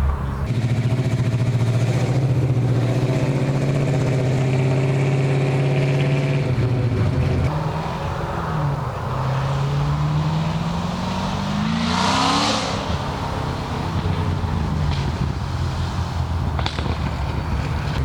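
Car engine running at steady low revs, then dropping and climbing in pitch as it accelerates away, with a short burst of louder noise about twelve seconds in.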